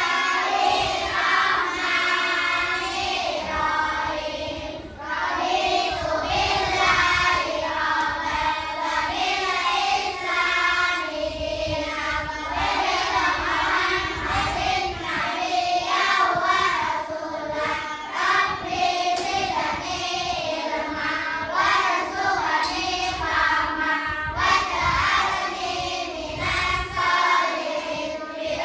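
A class of children reciting a prayer together in unison, in a sing-song chant.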